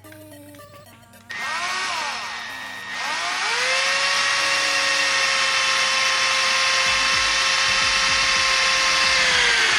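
Handheld power drill/driver running: a short run starting about a second in whose pitch rises and falls, then a steady whine for about six seconds that winds down at the end.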